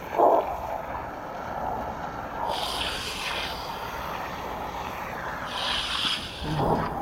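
Garden hose spray hitting the base of an outdoor air-conditioner unit and its pad, a steady hiss with two brighter splashing surges, the first about two and a half seconds in and the second near the end.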